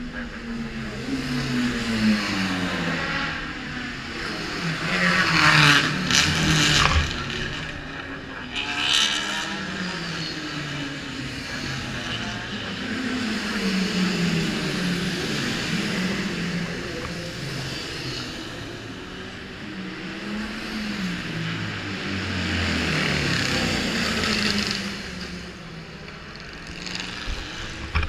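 1980s superbike racing motorcycles running at speed, engines revving up and down through the gears, with several bikes heard at once. The loudest passes come about five to seven seconds in, again around nine seconds, and near the end.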